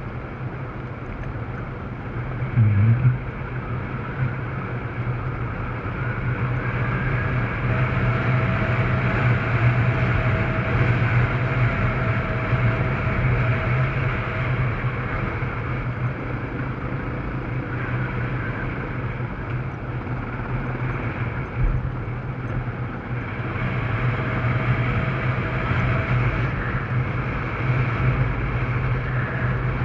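Yamaha Serow enduro motorcycle's single-cylinder four-stroke engine running steadily at low speed while being ridden on a dirt road. There is a short louder rev about three seconds in.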